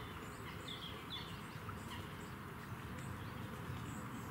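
Small birds chirping and singing in short phrases over a steady low background rumble.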